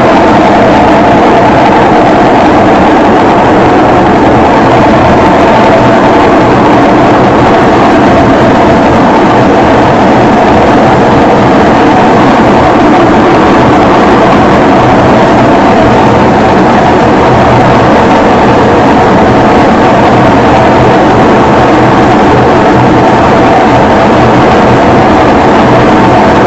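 Electrolux LT10B 10 kg top-loading washing machine running, a loud steady mechanical hum that holds without a break.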